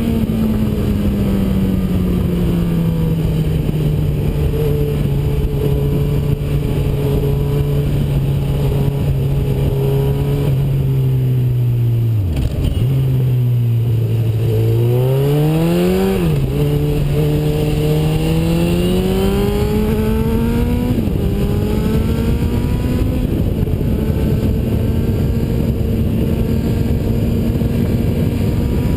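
Honda CB1000R's inline-four engine through an Ixil aftermarket exhaust with the dB killer removed, heard from the fuel tank. Engine speed falls slowly and dips low about halfway, then climbs hard again, dropping sharply at two upshifts a little past halfway and about three-quarters in, with revs still rising at the end. Steady wind rush runs underneath.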